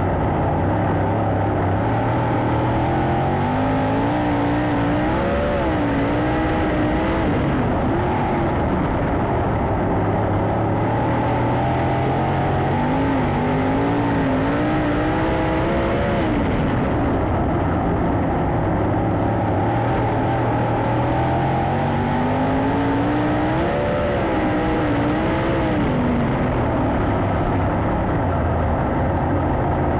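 Sprint cars racing on a dirt oval, their engines running loud and steady. Three times, about every ten seconds, the pitch climbs and wavers as the cars come around.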